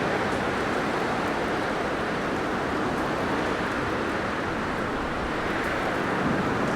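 Blizzard wind blowing steadily: a dense, even rush of noise with no clear gusts or breaks.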